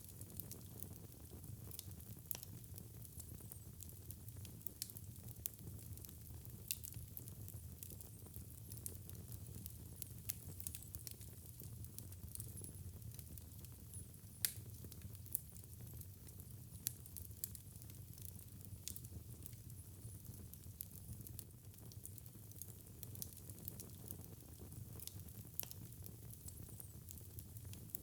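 Wood fire burning in a fireplace: a steady low rumble of flames with scattered sharp crackles and pops, one louder pop about halfway through.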